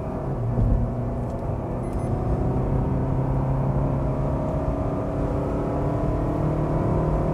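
Maruti Suzuki Baleno's 1.2-litre four-cylinder petrol engine under hard acceleration in third gear, heard from inside the cabin. Its note climbs slowly as the revs build.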